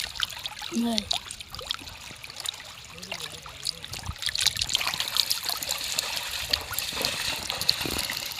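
River water lapping and trickling close by, a steady patter of many small splashes and drips.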